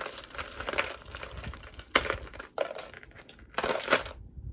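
Beaded necklaces and small metal jewelry parts handled, rustling and clicking against each other, with sharp clicks about two seconds in and near the end.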